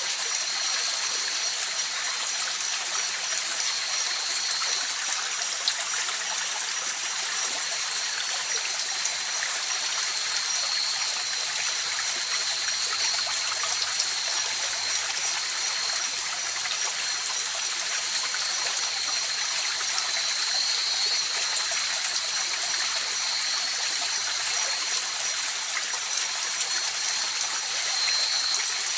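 Flowing river water: an even, steady rushing with no breaks. Above it runs a steady high-pitched tone, with a fainter pulsing tone higher still.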